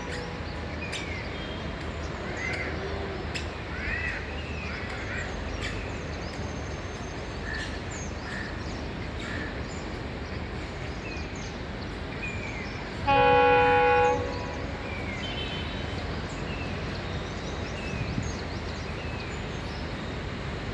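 A train horn sounds one blast of about a second, about two-thirds of the way through, over a steady low rumble, with birds chirping.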